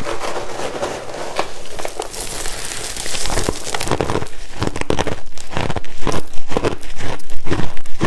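Crushed ice being chewed in big bites close to the microphone: a crackly rustle at first, then quick, regular crunches from about four seconds in.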